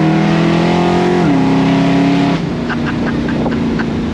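1969 Camaro SS's 396 cubic-inch big-block V8 pulling under full throttle, heard from inside the cabin: the engine note climbs steadily, drops in pitch about a second in as the gear changes, then climbs again, and the engine gets quieter about two and a half seconds in as the throttle comes off.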